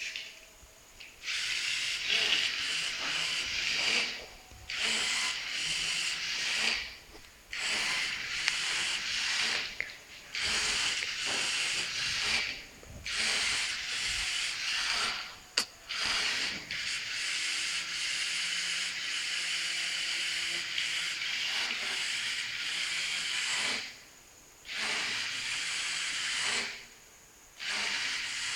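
Small robot's geared drive motors running in spurts, a hissing whirr that starts and stops every second or few as the robot moves and pauses, with one sharp click midway.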